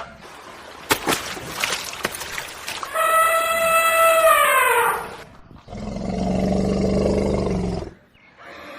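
A horse whinnying: a long, high call that falls in pitch about three seconds in, followed by a low, rough, pulsing sound. It opens with a few sharp clicks over a noisy background.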